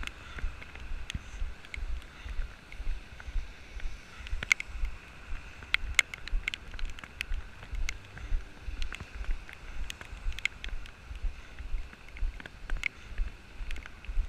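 Footsteps with the camera jolting at each step, a steady rhythm of low thumps about two to three a second, over a hiss of rain with scattered sharp ticks.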